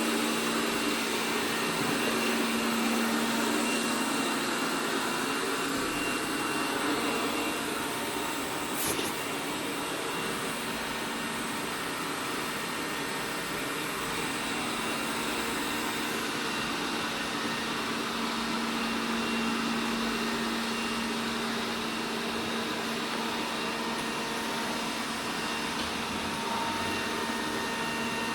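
ELARI SmartBot Lite SBT-002A robot vacuum running: the steady whir of its suction fan and brushes with a low hum, and one short click about nine seconds in.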